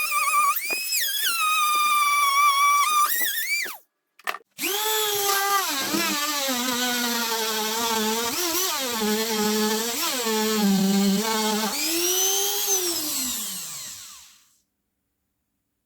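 Small electric power tool motor, drill-like, running with its pitch dipping and recovering as it is loaded. It stops briefly about four seconds in, starts again, and spins down near the end.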